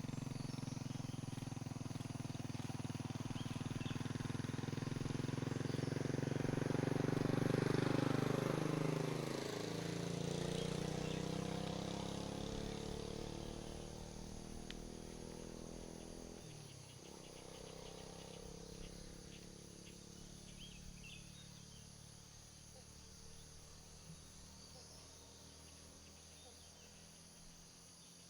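A motor vehicle drives past on the road, its engine growing louder to a peak about eight seconds in, then its note dropping as it goes by and fades away. A quieter second pass follows around seventeen seconds in, leaving faint birds and insects.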